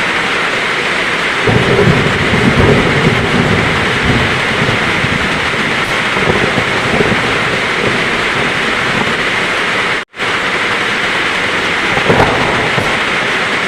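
Heavy rain pouring steadily, with low thunder rumbling in swells, the strongest near the start and again near the end. The whole sound cuts out for a split second about ten seconds in.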